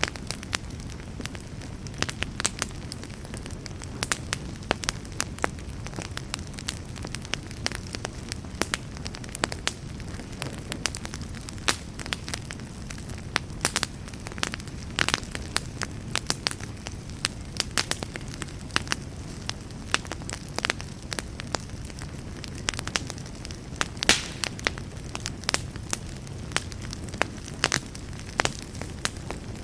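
Campfire burning, with a steady low rush of flame and irregular crackles and pops throughout.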